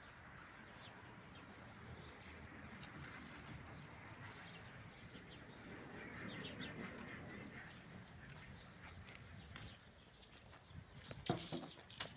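Faint outdoor ambience with birds chirping, and one sharp knock near the end.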